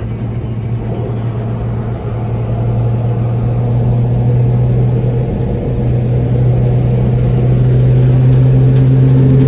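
Car engine running at a steady speed, a low drone that slowly grows louder.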